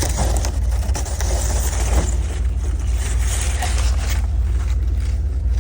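Car being driven, heard from inside the cabin: a steady low rumble of road and engine, with a hiss over it that fades about four seconds in and a few faint clicks.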